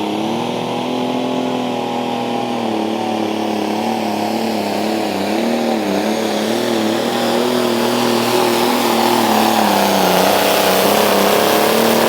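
Light limited super stock pulling tractor's engine running flat out under load down the track, its pitch dipping and wavering as the load changes and getting a little louder toward the end.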